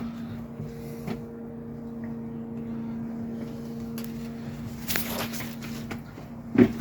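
A steady low hum with a few faint knocks and scuffs, then a short burst of pigeon cooing near the end.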